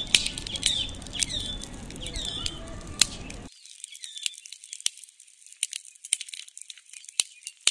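Birds chirping among scattered sharp clicks. About three and a half seconds in, the lower sounds cut off, leaving faint, thin, high clicking and rattling.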